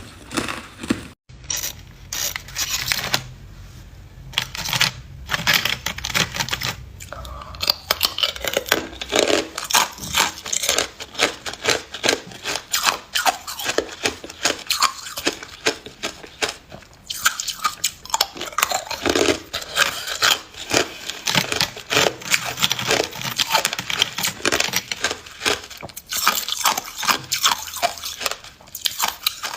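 A person biting and chewing ice close to the microphone: a dense, irregular run of sharp crunches and cracks, with a brief break about a second in.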